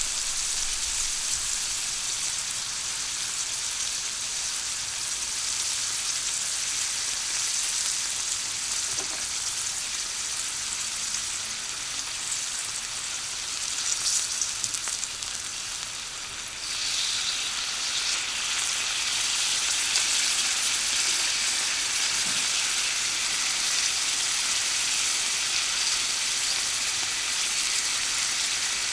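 Slices of beef kalbi sizzling on a hot iron griddle, a steady crackling sizzle that grows louder a little past halfway through.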